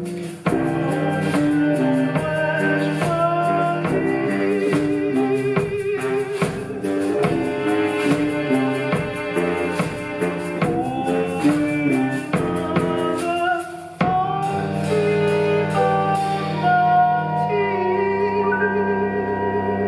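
Live ensemble music: a melodic instrumental passage driven by drums and percussion. About fourteen seconds in it breaks off into sustained held notes with vibrato and no percussion.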